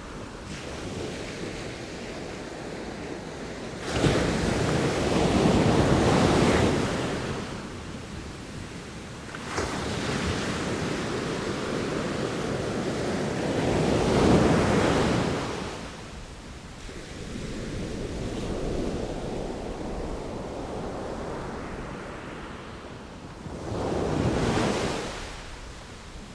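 Sea waves breaking and washing ashore in slow surges, three stronger waves rising and falling away over the stretch, with a softer hiss of surf between them.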